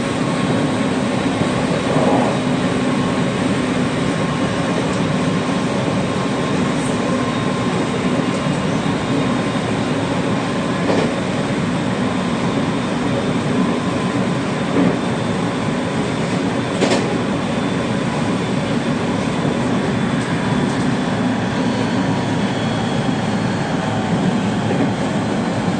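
Aoimori Railway 701-series electric train running along the line, heard from inside the rear car: a steady rumble of wheels on rail, with a few sharp clicks as it crosses rail joints.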